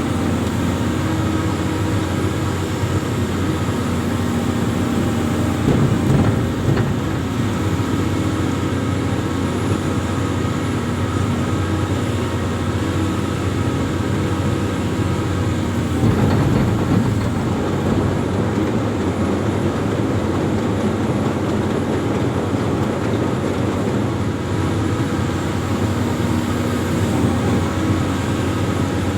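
Amphibious excavator's diesel engine running steadily under working load, briefly louder twice, about six seconds in and again just past halfway.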